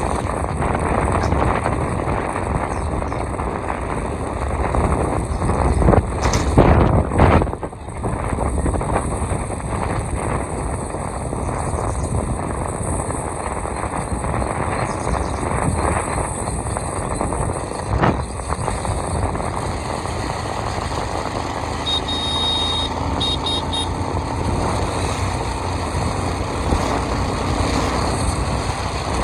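A motorcycle riding along with a steady rushing noise, broken by a few loud knocks about six to seven seconds in. A short run of high beeps sounds around twenty-two seconds in.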